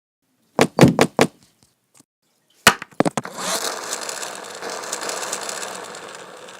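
A few sharp clicks or knocks, then a rattling, whirring mechanical noise that starts about three seconds in and slowly fades.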